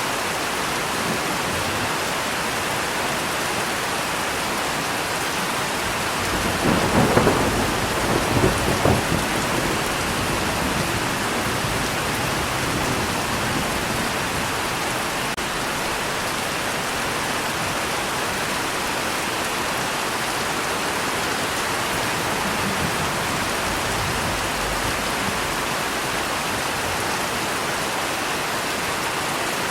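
Steady heavy rain, with a rumble of thunder about six seconds in that crackles and fades over some four seconds.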